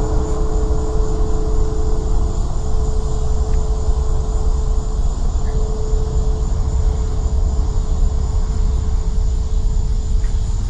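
Deep, steady rumble with a droning hum that fades in and out over it: one of the unexplained 'strange sky sounds' people record outdoors. A thin, high steady tone runs underneath.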